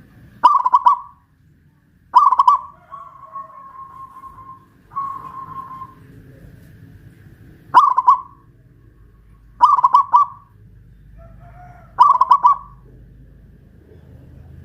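Zebra dove (perkutut) cooing: five loud, stuttering coo phrases, with fainter held notes between them.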